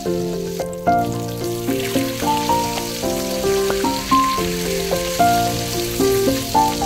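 A beef burger patty and bacon sizzling as they fry in butter in a frying pan, with a short break in the sizzle under a second in. Background music with a gentle stepping melody plays over it.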